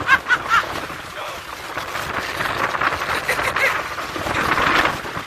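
Laughter trailing off, then a steady rushing noise of strong wind on the microphone, swelling near the end.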